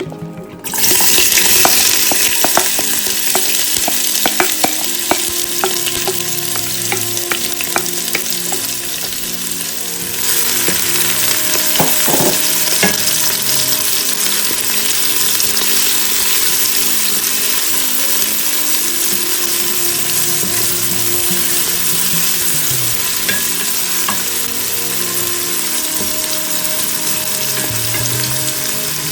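Food sizzling as it fries in hot oil in a pan, with scattered clicks of a utensil stirring it. The sizzle starts suddenly about a second in and gets louder about ten seconds in.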